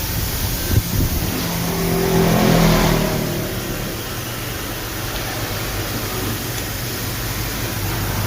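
Kawasaki Z650's parallel-twin engine through a bassy Akrapovic exhaust, running just after a cold start: the revs rise and fall back over about two to three seconds in, then it settles into a steady idle.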